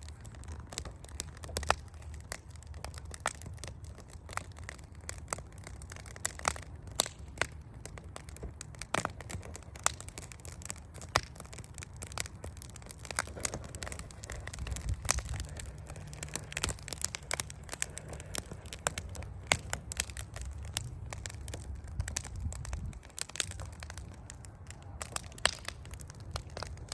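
Campfire crackling: wood burning with many irregular sharp pops and snaps over a low rumble.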